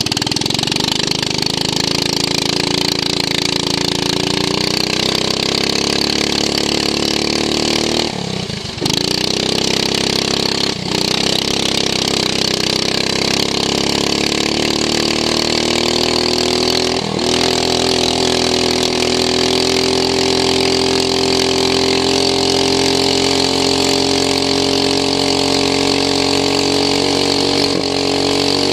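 Racing lawn mower's engine running hard, heard onboard. Its revs drop sharply about eight seconds in, then climb slowly and steadily, with brief dips near eleven and seventeen seconds.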